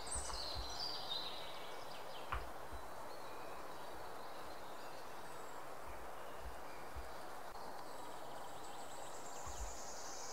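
Steady background hiss with faint bird chirps: a quick flurry of high chirps at the start and a longer high call near the end.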